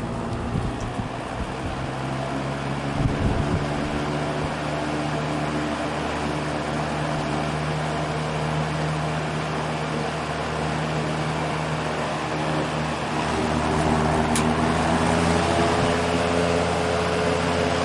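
General Electric W22 box fan with plastic blades running, a steady motor hum under the rush of air, free of the buzz it used to make: its loose shaded-pole coil has been fixed with varnish. It grows louder about two-thirds of the way through.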